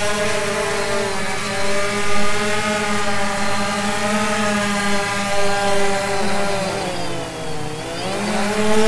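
DJI Phantom quadcopter's four motors and propellers buzzing steadily in flight. The pitch drops about seven seconds in, then rises again.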